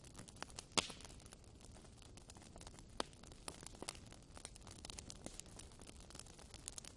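Wood fire burning in a fireplace: faint steady hiss with irregular sharp crackles and pops, the loudest pop a little under a second in and another strong one about three seconds in.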